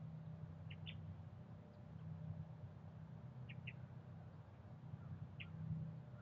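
Short, high-pitched bird chirps, mostly in quick pairs, repeated every second or two over a steady low hum.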